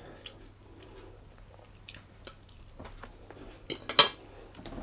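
A person chewing a mouthful of food, with scattered wet mouth clicks and smacks; the loudest short cluster comes about four seconds in.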